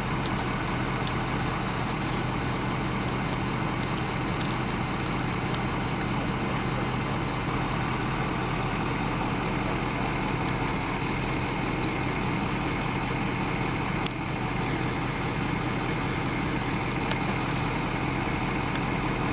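A motor vehicle engine running steadily, an even hum with no changes, and one sharp click about fourteen seconds in.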